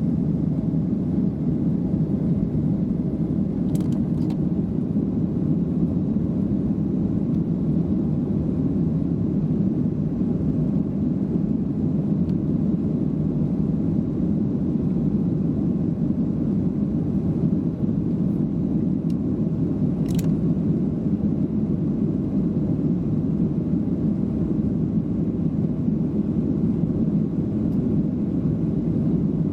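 Steady low rumble of an airliner's engines and airflow heard from inside the passenger cabin, with a couple of faint clicks.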